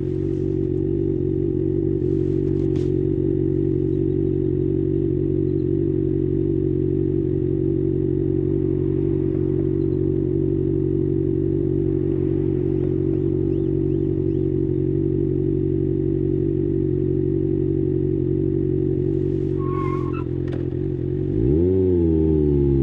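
2024 Kawasaki ZX-6R's inline-four engine idling steadily, then a throttle blip near the end sends the revs up and back down.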